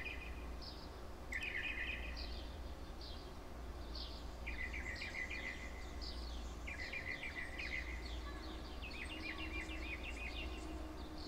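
Songbirds singing and chirping in short trilled phrases repeated every couple of seconds, over a steady low outdoor rumble.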